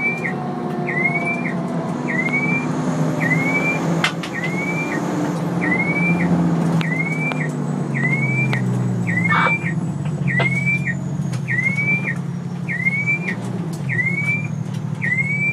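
Fire engine's diesel engine running steadily, with a short rising electronic chirp repeating about one and a half times a second over it.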